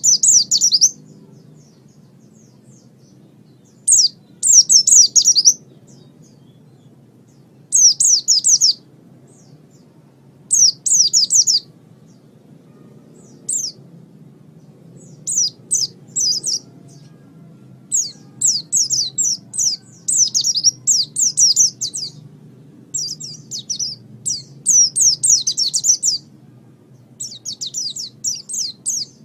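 A white-eye (pleci) singing in quick, high twittering phrases about a second long. The phrases come a few seconds apart at first and almost back to back in the second half. A faint steady low hum lies underneath.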